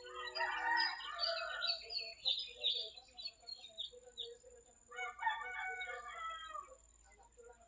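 Rooster crowing twice, once just after the start and again about five seconds in, with small birds chirping in between.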